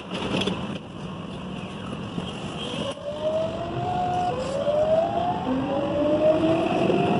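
Electric commuter train pulling away and accelerating, heard from inside the car: rumble and hiss with a motor whine that rises in pitch in several steps from about three seconds in, growing louder.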